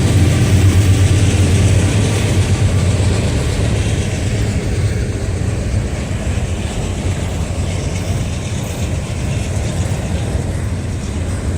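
Freight train rolling past close by: the steady rumble and clatter of railcar wheels on the rails, with a low diesel drone that fades over the first few seconds.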